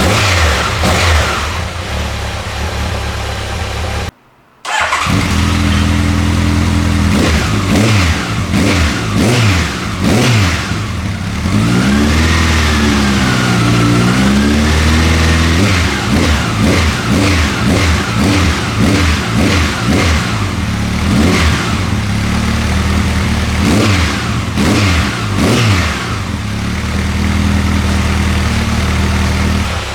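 Honda CB1100's air-cooled inline-four engine running through its slip-on exhaust, idling and revved in repeated short blips, with one longer smooth rise and fall in revs near the middle. The sound cuts out for about half a second about four seconds in.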